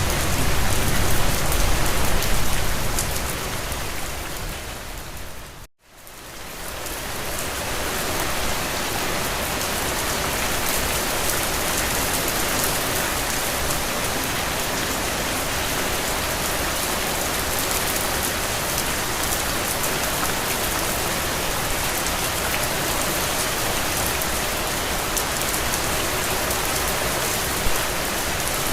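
Steady rain falling as an even hiss. About six seconds in it fades out to a moment of silence and fades back in, settling to an even, slightly lighter rain.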